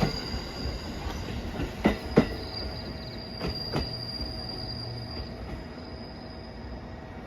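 Train running on the rails: a steady rumble with a couple of sharp wheel knocks over rail joints about two seconds in and a thin high whine that fades out about five seconds in.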